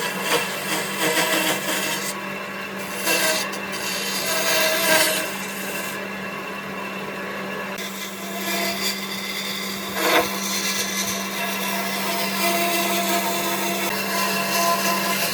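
Power tool running on wood, with a steady motor hum under a rough, changing rubbing and scraping noise; a sharp knock about ten seconds in.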